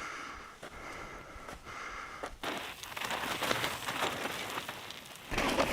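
Mountain bike tyres rolling and crunching over loose gravel and rock, a dense crackling hiss with many small clicks that grows louder with a low rush near the end.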